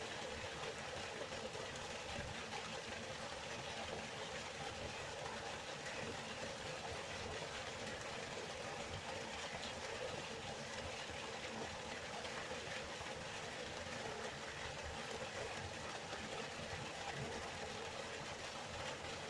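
River water flowing, a steady even rushing without pause.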